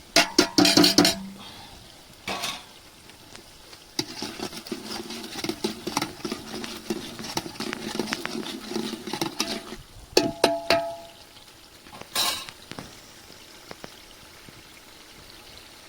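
Metal utensil stirring and scraping in a metal cooking pot, with ringing clanks as it strikes the pot's rim: a few clanks at the start, a longer stretch of continuous stirring in the middle, then more clanks.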